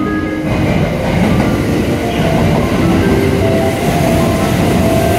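JR West 683 series electric limited express train running into the station and slowing to a stop. A loud, steady rumble of wheels on rail with rail-joint clatter, and brief shrill tones scattered through it.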